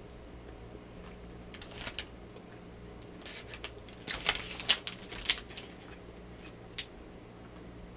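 Close-miked mouth sounds of someone eating a cookie: scattered sharp wet clicks of chewing, thickest in a cluster in the middle, over a steady low electrical hum.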